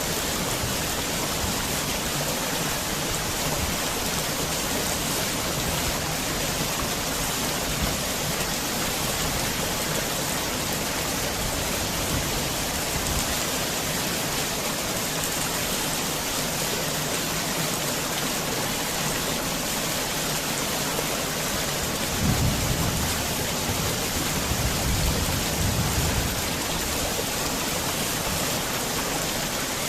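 Heavy rain falling steadily, with a low rumble of thunder rolling in about three quarters of the way through and fading a few seconds later.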